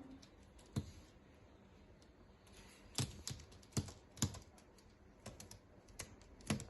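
Irregular sharp taps and clicks on a hard surface, about a dozen spread unevenly, several bunched together in the middle.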